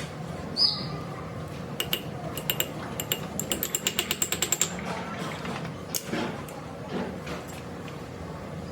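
Metal tools and pump parts clicking and clinking during hands-on work on a hydraulic pump, with a fast run of rapid metallic clicks midway through.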